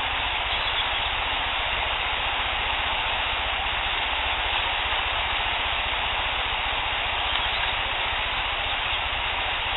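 Steady hiss with a low rumble beneath, from a heavily amplified outdoor field recording.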